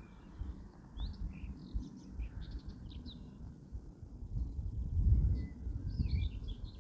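Small birds chirping and twittering in short, scattered calls throughout. Underneath runs an irregular low rumble with thuds, loudest about five seconds in.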